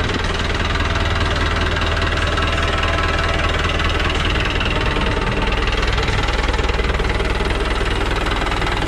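New Holland 65-56 tractor's diesel engine running steadily.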